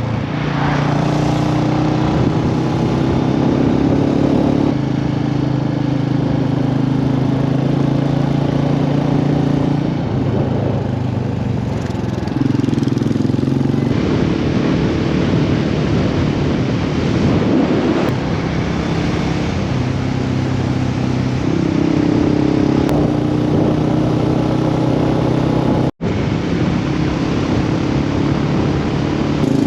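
Royal Enfield motorcycle engine running under way, its pitch stepping up and down several times with speed and gear changes.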